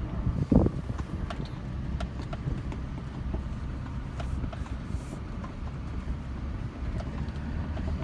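Truck driving slowly, with a steady low engine and road rumble heard from inside the cab and scattered light knocks and rattles. A brief louder bump comes about half a second in.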